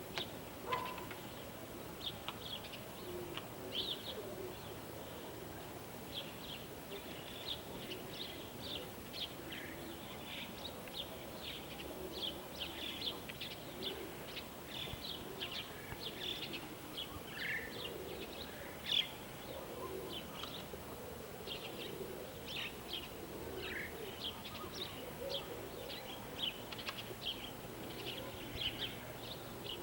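Small birds chirping in many quick, short, high calls, with pigeons cooing low underneath.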